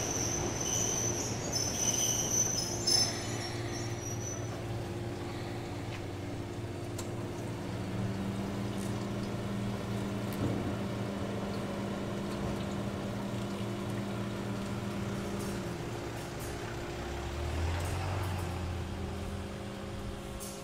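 Electric train at a station: a high wheel squeal fades out over the first few seconds, then a steady low mechanical hum goes on, its pitch stepping up and down a few times.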